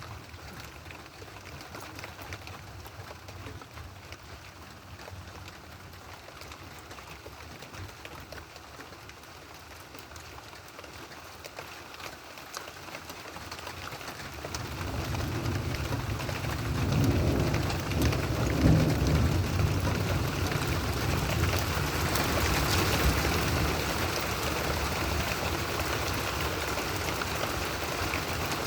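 Steady rain in a thunderstorm. About halfway through, a long low roll of thunder builds, and the rain and rumble stay louder after it.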